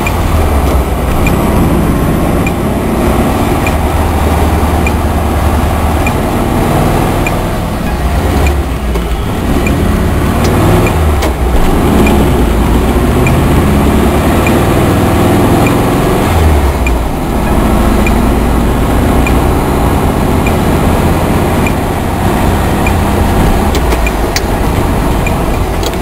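1969 Volkswagen Karmann Ghia's air-cooled flat-four engine running on the road, heard from inside the cabin. The engine note dips briefly about a third of the way through and again about two-thirds through, as at gear changes.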